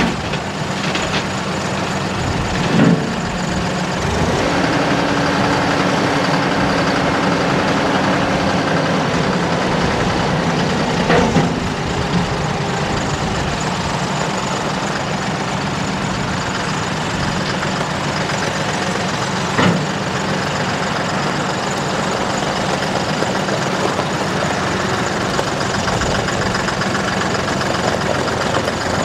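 A John Deere 5075E tractor's turbocharged three-cylinder diesel running steadily. A higher steady note joins for several seconds from about 4 seconds in, and a few short knocks come at about 3, 11 and 20 seconds.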